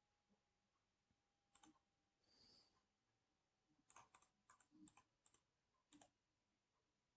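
Faint, scattered clicks of a computer's mouse and keyboard, with a quick run of them between about four and five and a half seconds in.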